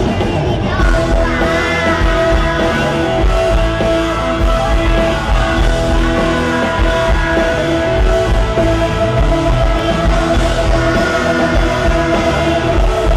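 Live pop-rock band playing through a concert PA, with singing over it and a long held note through most of the passage.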